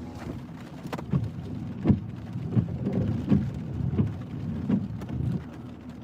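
Heavy thunderstorm rain drumming on a vehicle, heard from inside it, with a low rumble and repeated thumps every half second to a second.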